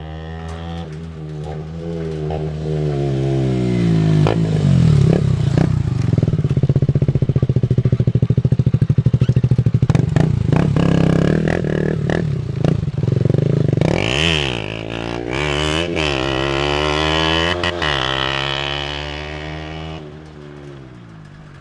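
KTM 125 Duke's single-cylinder four-stroke engine running through its stock exhaust: it grows louder over the first few seconds, pulses rapidly for a couple of seconds, rises and falls in pitch with several revs, then fades near the end.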